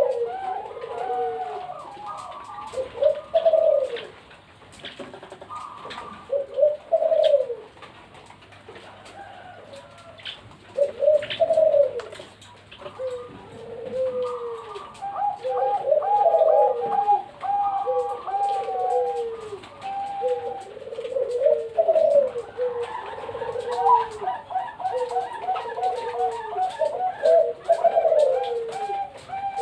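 Several zebra doves (perkutut) cooing, their repeated phrases overlapping at different pitches, with faster runs of short notes from about halfway on.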